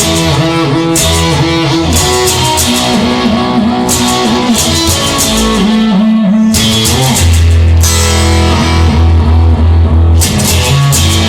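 Instrumental rock music: a guitar plays a melody with wavering, bent notes over a steady bass line, while the drums' cymbals come and go.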